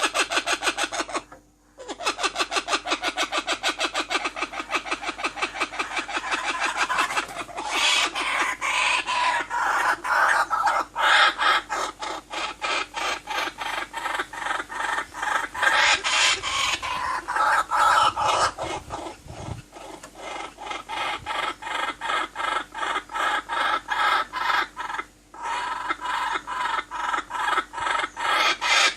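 Baby birds cheeping in fast repeated calls, about five or six a second, with a short break about a second in and a brief gap near the end: the begging calls of chicks being fed.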